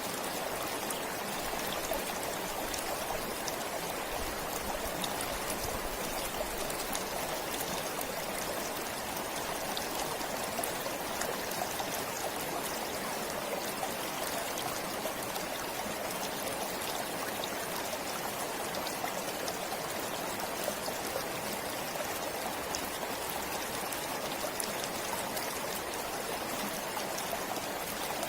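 Stream flowing steadily: a constant rush of water dotted with many small splashes and drips.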